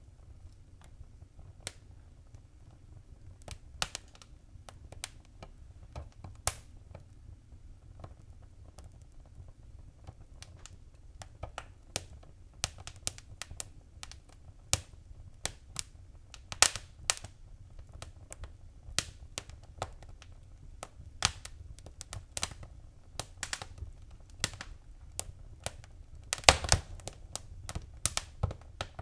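Wood fire crackling and popping, with irregular sharp snaps over a low steady rumble; the pops come more often after about ten seconds, and the loudest cluster falls near the end.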